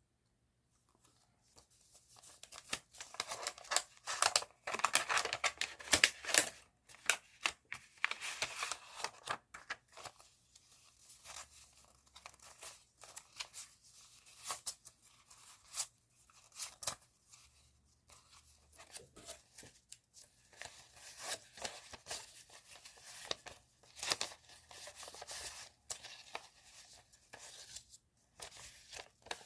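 Stationery packaging being unwrapped by hand: paper and plastic rustling and tearing in irregular bursts. It starts about a second in and is loudest in the first several seconds.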